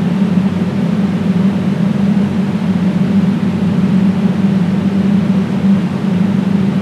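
Loud, steady mechanical drone with a strong low hum and a hiss over it, unchanging throughout.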